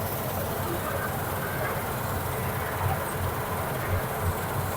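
Combine harvester running steadily through the wheat, a continuous deep engine and machinery rumble.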